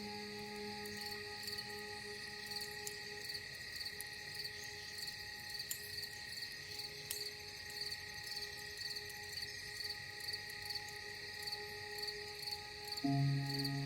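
Crickets chirring steadily in a forest ambience, a continuous high, finely pulsing trill. A low ambient-music note fades out over the first few seconds, and new soft music notes come in near the end.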